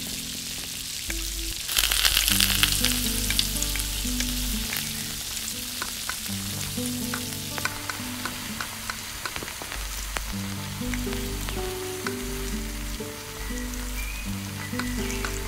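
Food sizzling in a small steel pot, the hiss growing louder about two seconds in, with the clicks and scrapes of a spoon stirring and mashing the fish and potato filling and scooping it out.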